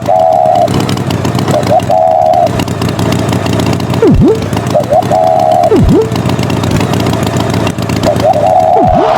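Cartoon engine sound effect running steadily. About every two seconds a quick swooping sweep plunges and rises, followed by a short wavering tone.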